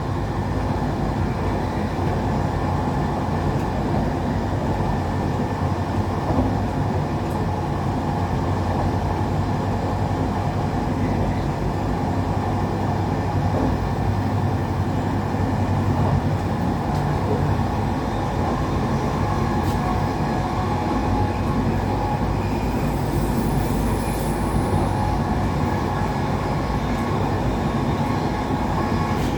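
Passenger train running along the line, heard from inside the carriage: a steady rumble of the wheels on the rails.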